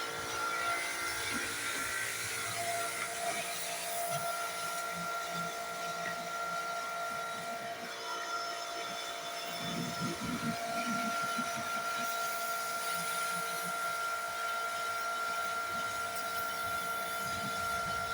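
Electric pressure washer running, with its motor's steady whine under the hiss of the high-pressure water spray as the motorhome is washed down.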